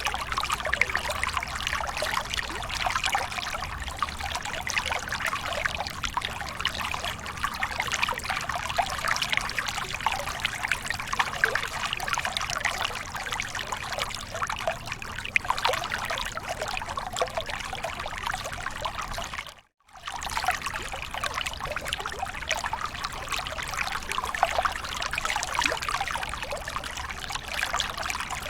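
Waterfall running: water pouring and splashing steadily with a dense, bright trickle. About two-thirds of the way through, the sound cuts out for a split second and then resumes.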